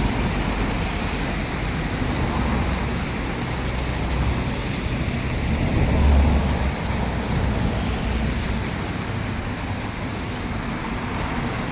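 Waterfall rushing in a steady, even roar, with low rumbling swells now and then, one about halfway through.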